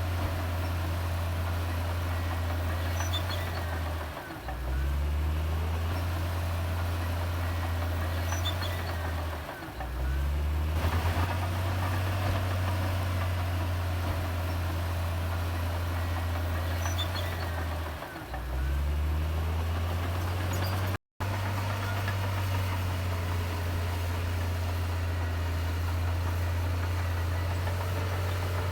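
Heavy diesel engine of a Komatsu D58E bulldozer running with a steady low drone. It sags three times, about 4, 9 and 18 seconds in, and climbs back up in pitch each time as the load changes.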